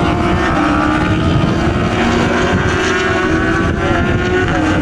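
Several racing motorcycle engines running at high revs together, a steady loud drone whose pitches drift slowly up and down as the bikes go round the circuit.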